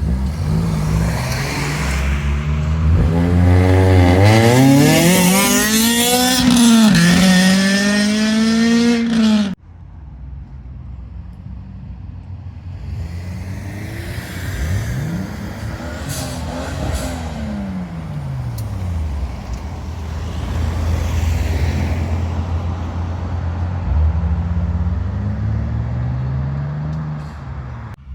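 Modified car engines revving hard as cars pull away, the pitch climbing and dropping through several revs for about nine seconds before cutting off abruptly. Then more engines rev up and down past the microphone over a steady low rumble of idling cars.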